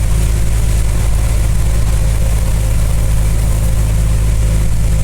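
Truck engine running steadily under way, heard inside the cab, with heavy rain making a constant hiss on the cab and windshield.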